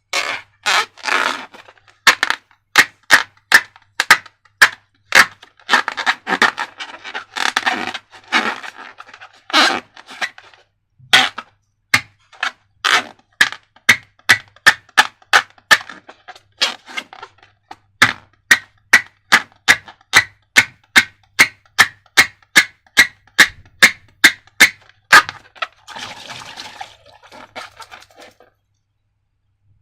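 A long run of sharp snapping clicks, about two a second, with scraping and rustling between them; the clicks stop near the end.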